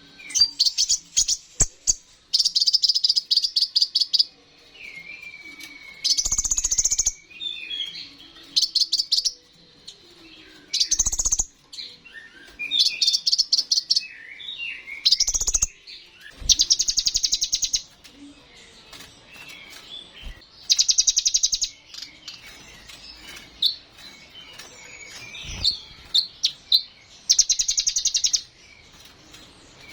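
Kolibri ninja (konin) sunbird singing in a full, varied song: repeated bursts of rapid, high, buzzy trilling a second or two long, alternating with softer quick twittering phrases.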